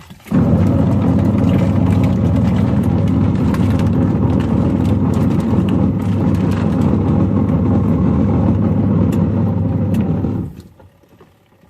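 Washing machine motor running with a steady hum while plastic toy tools rattle and click inside the drum; it starts suddenly just after the start and stops abruptly about ten and a half seconds in.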